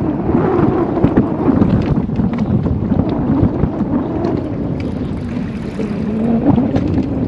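Heavy wind buffeting the microphone on an open boat: a loud, steady low rumble.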